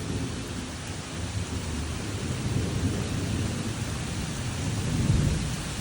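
Heavy thunderstorm rain falling steadily, with a low rolling rumble that swells to its loudest about five seconds in.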